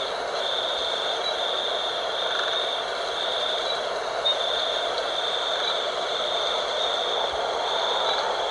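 Wind blowing steadily at night, with an insect calling in a high, even trill that breaks off briefly about once a second.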